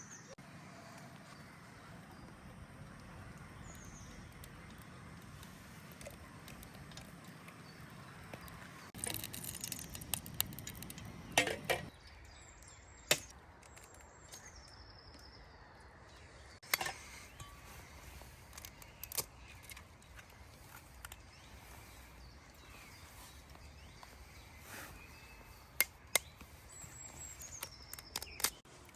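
Forest ambience with a bird giving short, high, falling whistles several times. A cluster of clicks, knocks and rustling comes about nine to twelve seconds in, and sharp single clicks follow now and then.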